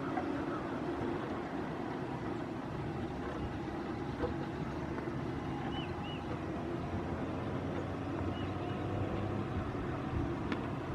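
Power wheelchair's drive motors and wheels running steadily as it rolls along, with a few faint bird chirps around the middle.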